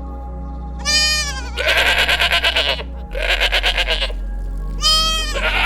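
A bleating goat or sheep calls four times in a row. The two longer calls in the middle have a fast quavering tremble. Steady background music runs underneath.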